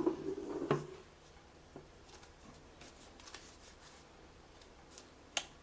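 Faint rustling and light clicks of a folded paper model being handled, with one sharper tap near the end.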